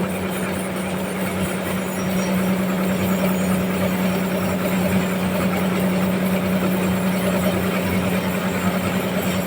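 Sawmill machinery running steadily, with a constant low hum under a dense mechanical noise.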